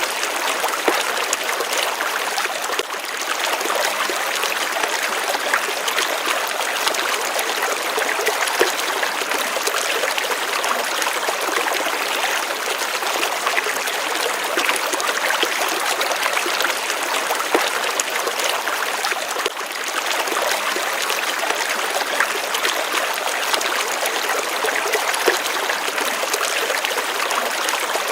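Water running steadily over stones in a shallow stream, a continuous trickling and splashing.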